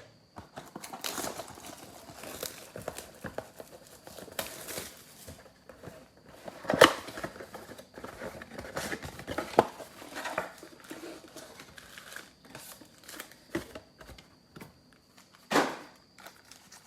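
A trading-card mega box and its packs being torn open by hand: plastic wrapping and cardboard crinkling and tearing in irregular rustles, with a few sharper snaps.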